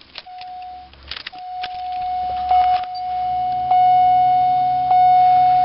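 Ignition keys jingling and clicking, then a steady warning tone from the car's dash that sounds almost without a break, with a low hum building beneath it. The engine is not yet cranked.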